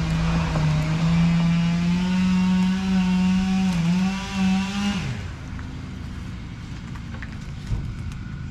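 An engine running hard at a steady high speed, stepping up slightly in pitch, then throttled back about five seconds in so that its pitch falls away to a lower, quieter running sound.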